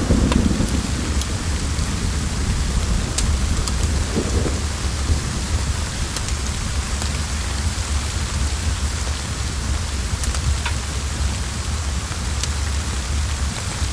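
Steady heavy rain hissing, over a constant deep rumble. Thunder dies away in the first moments, and a brief low rumble comes about four seconds in. Sparse sharp crackles from a wood fire are scattered throughout.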